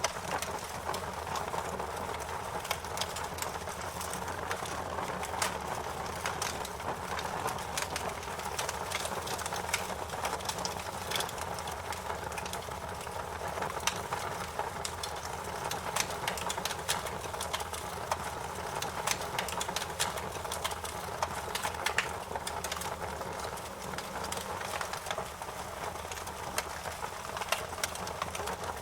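Wood fire burning, crackling and popping: a steady soft rush of flame with many sharp irregular pops.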